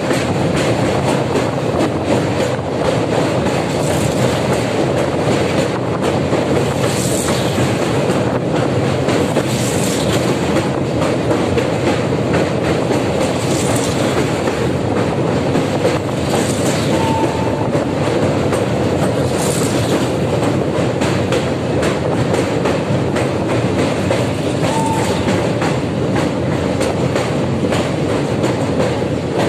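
Jan Shatabdi Express coaches running at speed over a steel truss bridge, heard from an open coach doorway. A steady rumble of wheels on rails with frequent clicks and clatter.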